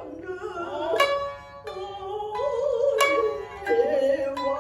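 Shinnai-bushi jōruri: a chanter holds and bends long notes with a wavering vibrato over shamisen accompaniment. Main shamisen and upper-tuned uwajōshi shamisen give sharp, ringing plucks about one second and three seconds in.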